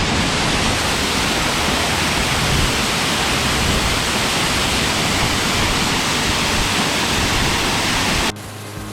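A 16-metre waterfall: a steady, dense rush of falling water that cuts off abruptly near the end.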